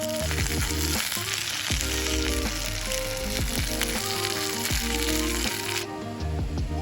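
Food sizzling as it fries in a pan over a campfire, cutting off sharply about six seconds in. Background music with a bass line plays under it.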